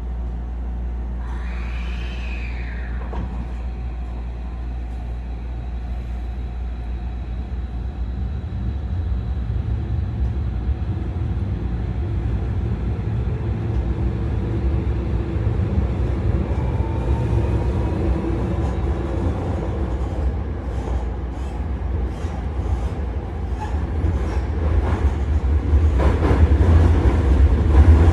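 Electric commuter train running, with a steady low rumble that grows louder. About two seconds in a brief tone rises and falls. From about halfway a faint whine rises in pitch as the train gathers speed.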